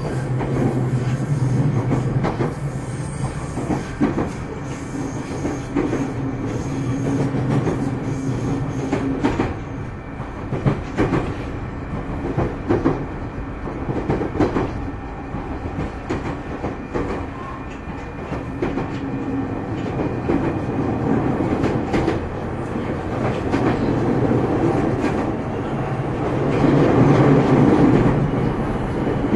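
JR 209 series electric train running, heard from inside motor car MoHa 209-2151: a steady rumble of wheels on rail with frequent knocks over rail joints. It grows louder near the end.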